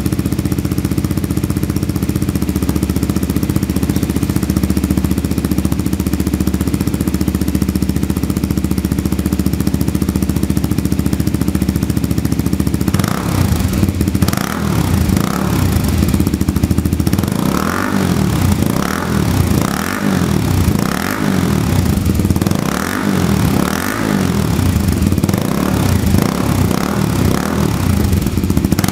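Kawasaki Z250SL's single-cylinder engine running through a Coffman exhaust tip with the baffle still in: a steady idle for the first half, then the throttle is blipped over and over, the revs rising and falling about once a second.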